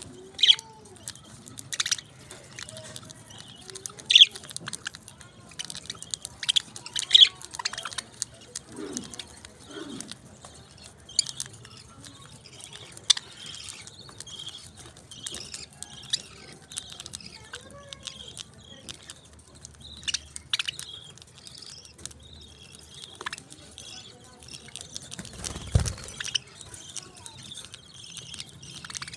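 Pet parakeets chirping and chattering, with sharp high calls at irregular intervals over softer warbling. A low bump sounds near the end.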